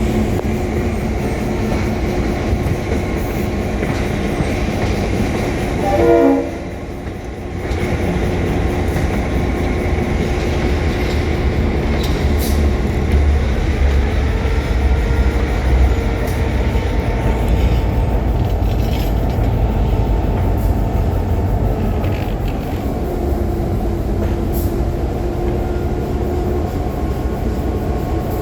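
Train running on rails with a steady low rumble, and a brief horn blast, falling in pitch, about six seconds in.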